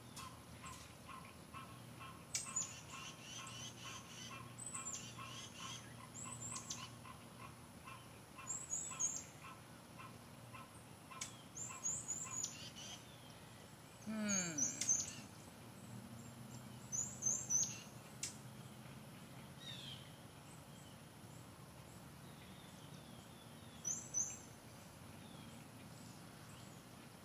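Birds chirping outdoors: short clusters of high notes every few seconds, over a faint steady hum. About halfway through, a louder short sound falls in pitch.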